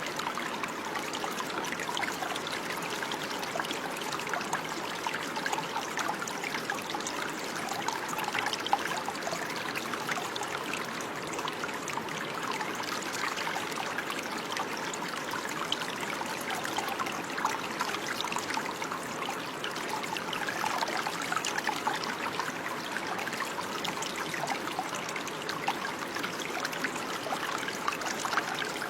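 Running water, a steady, unbroken trickling and splashing with many small splashes.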